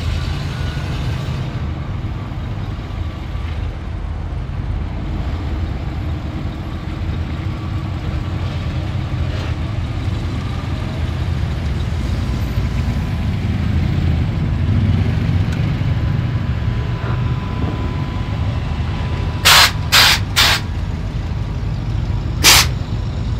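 Classic and custom car engines running at low speed as the cars roll past one after another, a steady low rumble. Near the end come three short, loud bursts of hiss in quick succession, then one more about two seconds later.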